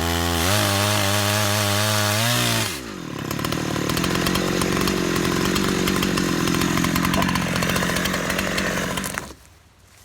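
Holzfforma G372XP two-stroke chainsaw ripping along a log in an Alaskan chainsaw mill at full throttle. Its revs drop sharply about three seconds in to a lower, rougher running, and the engine cuts off suddenly near the end.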